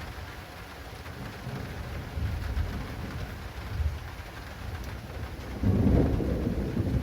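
Rolling thunder rumbling low under steady rain pattering on an acrylic awning, with a louder peal of thunder breaking in near the end.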